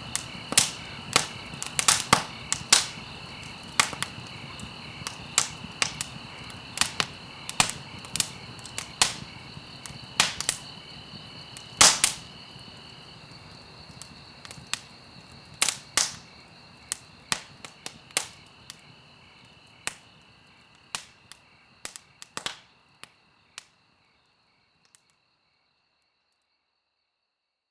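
Wood fire burning in a fireplace, crackling with frequent sharp pops and snaps over a soft hiss. The crackles thin out and the sound fades away to silence a few seconds before the end.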